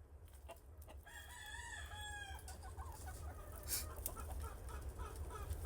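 A gamefowl rooster crowing once, about a second in, followed by chickens clucking in short repeated calls, over a steady low rumble.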